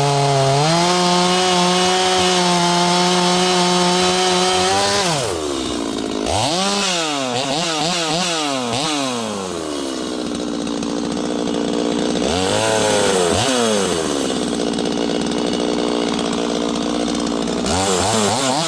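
Neotec NS846 45.4cc two-stroke chainsaw running steadily at full throttle in the cut. About five seconds in the engine drops off, then is revved up and down several times, with steadier running between the revs.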